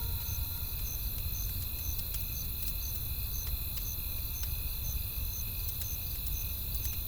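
Campfire crackling with scattered sharp pops over a low rumble of wind, while a cricket chirps steadily about twice a second and other insects hum.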